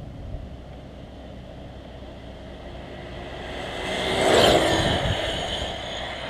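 An 8S electric 1/5-scale Rampage V3 RC truck passing at high speed. Its high motor whine and a rushing tyre noise rise to a peak about four seconds in, then fade with a drop in pitch as it goes by.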